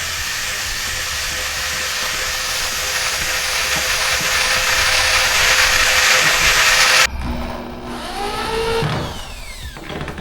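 A handheld power tool running steadily for about seven seconds, then cutting off abruptly; background music follows.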